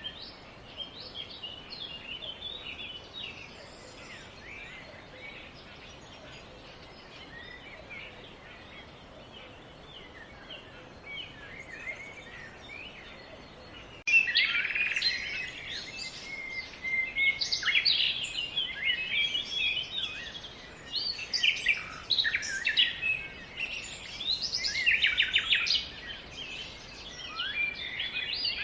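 Small birds singing and chirping, many quick high notes overlapping. About halfway through the song abruptly becomes louder and busier.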